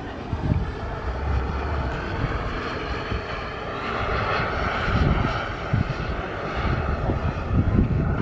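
Gas turbine of a large RC scale Aermacchi MB-339 jet in flight, a steady rushing whoosh that swells to its loudest about halfway through as the plane passes, then eases off. Low gusts of wind buffet the microphone.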